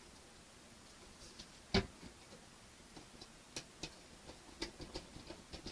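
Small clicks and taps from screws and plastic model-kit parts being handled and driven in: one sharp loud click nearly two seconds in, then lighter irregular clicks, roughly two a second.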